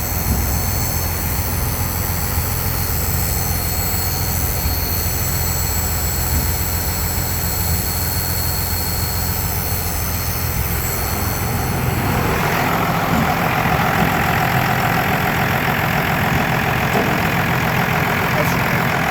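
Cummins 5.9 inline-six turbo diesel running steadily at idle. About twelve seconds in, the sound turns brighter and more rushing while the deep engine note weakens.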